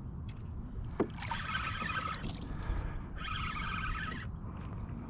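Spinning reel cranked in two short bursts, each about a second long, while fighting a large redfish on light tackle, over a steady low rumble of wind and water. A sharp click comes about a second in.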